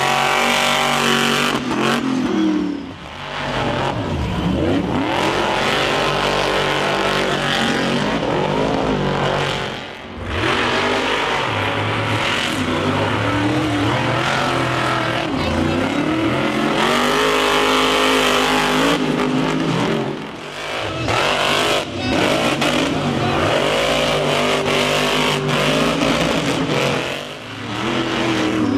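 Monster truck engine revving hard, its pitch climbing and falling over and over as the throttle is worked. It briefly drops off several times when the throttle is lifted.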